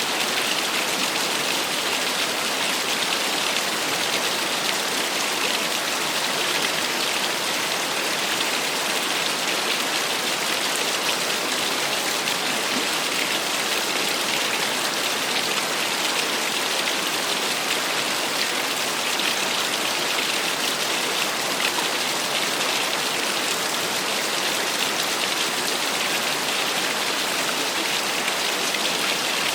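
Small waterfall splashing steadily, an even hiss of falling water with no changes.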